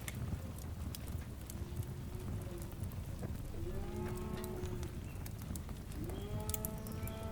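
Fire crackling with sharp pops over a steady low rumble. Over it come long, lowing, moo-like animal calls: a faint one about two seconds in, then two stronger ones starting about three and a half and six seconds in, each rising at the start and then held steady.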